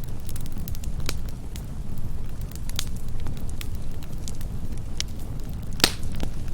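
Campfire burning: a steady low rumble with scattered crackles and pops of the burning wood, the sharpest pop near the end.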